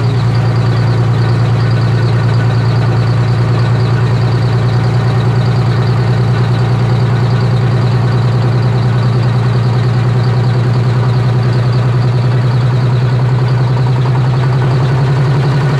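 Diesel engine of a 1990 Flxible transit bus idling steadily shortly after a cold start on a freezing day, its engine speed rising slightly near the end.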